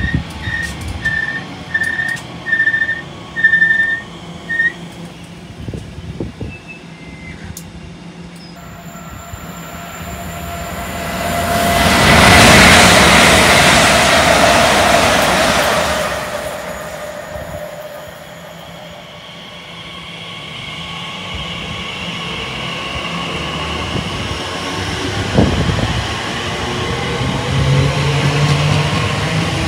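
A train passes through the station at speed: a rush of wheels on rail swells to a loud peak and fades away over several seconds. Before it, a run of short, evenly spaced beeps sounds; near the end another train draws near with a low, steady hum.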